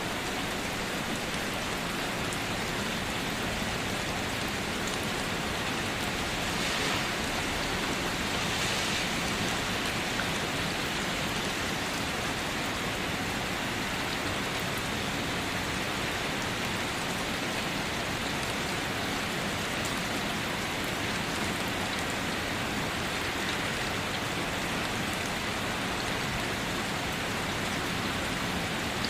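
Steady heavy rain falling and pattering on surfaces, an even hiss of drops with no let-up.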